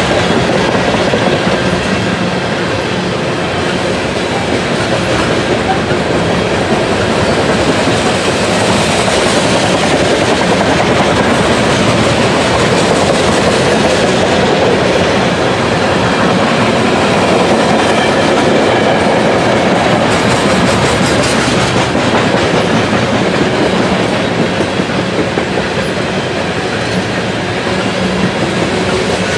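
A train's cars rolling past, with a steady, loud clatter of wheels over the rail joints.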